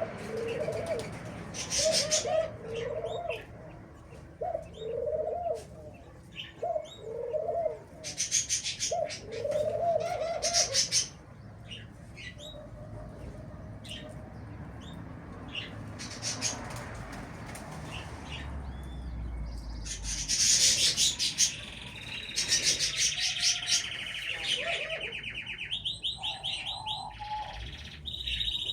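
Birds in an aviary: a dove coos in a steady series of low notes, about one a second, through the first half. Loud bursts of high chirping and twittering from small cage birds come and go, busiest near the end.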